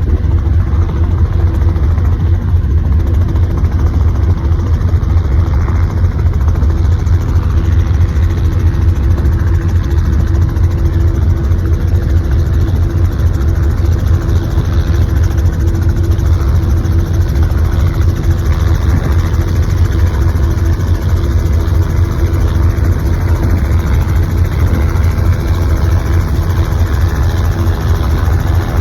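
An engine running steadily at idle, a constant low hum with a steady tone above it and no change in speed.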